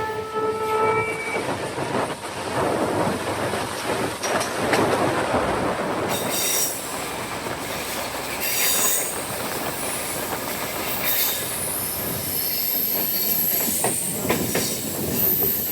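Suburban passenger train running on the rails, its horn note cutting off about a second in, then the wheels squealing high-pitched on and off over the running noise from about six seconds in.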